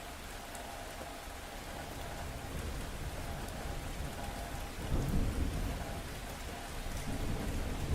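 Thunderstorm: steady rain with thunder, a low rumble swelling about five seconds in and again near the end.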